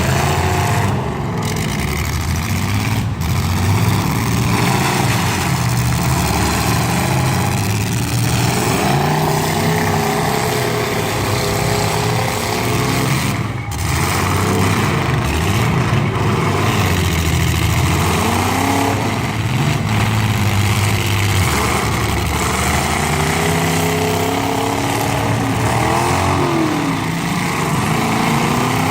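Several demolition derby stock cars' and trucks' engines revving hard at once, their pitches rising and falling over one another continuously.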